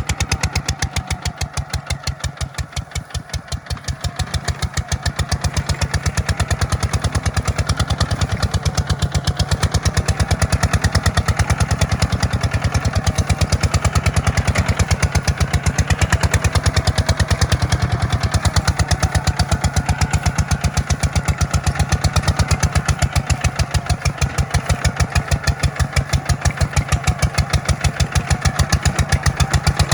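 Kubota tractor's diesel engine running steadily under load while plowing, its firing strokes a fast, even chug; it dips slightly a couple of seconds in, then picks up and runs louder.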